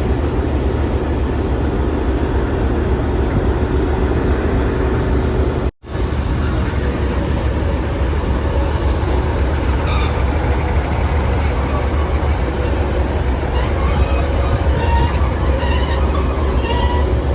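A ScotRail diesel train running at the platform, a steady low rumble, with a few brief high-pitched squeals in the second half. The sound cuts out for an instant about six seconds in.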